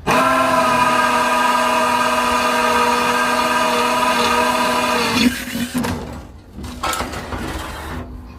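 Electric drill running at a steady high speed, boring holes for the stove's secondary air intake. About five seconds in, the whine drops away, leaving a fainter whirr and a few knocks.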